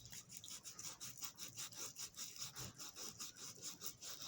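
Sandpaper rubbed quickly back and forth by hand against the metal wheels of a Marx toy train locomotive, cleaning and polishing them: faint, rhythmic scratchy strokes, about five a second.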